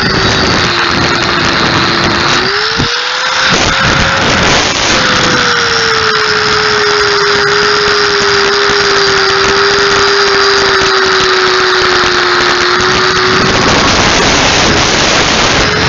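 Handheld grinder grinding the metal of a car's windshield frame, a loud steady grinding noise over the motor's whine. The whine's pitch wavers briefly about three seconds in, then holds steady.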